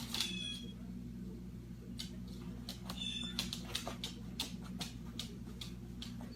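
A pet parrot giving two short, high squeaky chirps, one near the start and one about three seconds in, amid scattered light clicks and taps, over a steady low hum.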